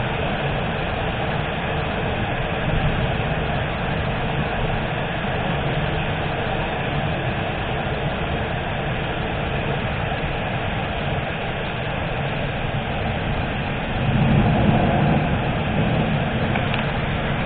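Thunderstorm: steady rush of heavy rain, with a low rumble of thunder swelling briefly near the end.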